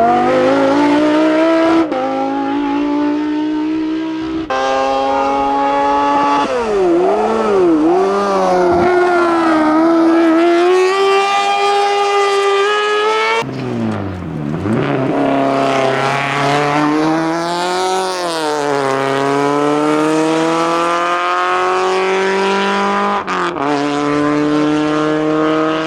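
Race car engines at full throttle, revving up through the gears with the pitch climbing and dropping back at each shift, with some dips and blips of the throttle between. The sound changes abruptly several times as one car's run gives way to another's.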